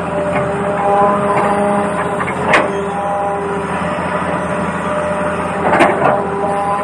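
Small electric motors and plastic gearboxes of a radio-controlled toy excavator whining as they run, the whine shifting in pitch as motors start and stop. Two sharp knocks come through, about two and a half seconds in and near the end.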